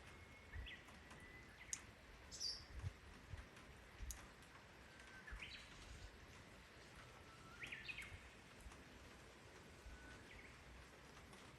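Faint bird song: a bird repeats a phrase about four times, each a held whistle that ends in a quick rising flourish, over a low rumble with soft thumps.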